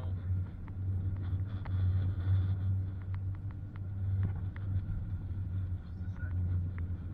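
Steady low rumble of a car's road and engine noise heard inside the cabin while driving, with faint scattered clicks throughout.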